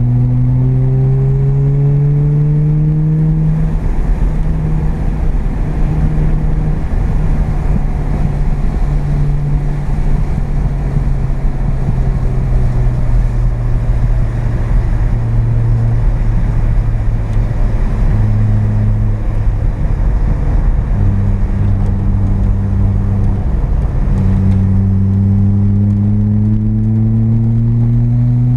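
Carbureted 12A rotary engine of a first-generation Mazda RX-7, heard from inside the car at speed on track. Its revs climb for the first few seconds, hold at a fairly even level with uneven throttle for most of the stretch, then climb again near the end.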